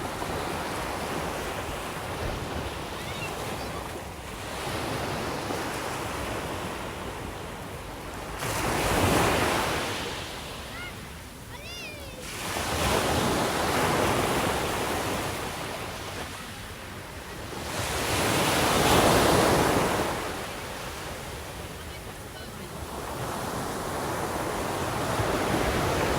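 Sea waves breaking on the shore and washing back, rising and falling in surges every few seconds.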